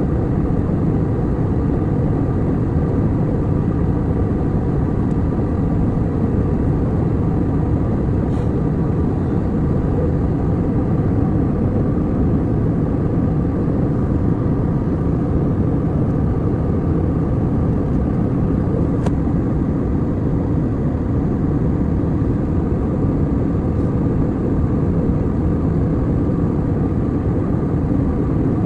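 Steady rumble of airliner cabin noise in flight: engine and airflow noise, deep and unchanging, with one faint click about two-thirds of the way through.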